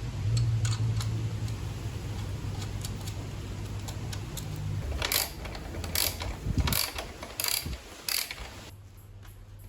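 Mechanical clicking from workshop tools: about six sharp clicks over three seconds, following a few seconds of steady low hum.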